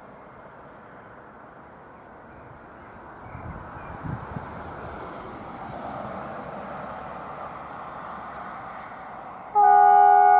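Stadler KISS double-deck electric multiple unit running along the track, its rumble building as it approaches. Near the end it sounds a loud multi-tone horn, held for about a second.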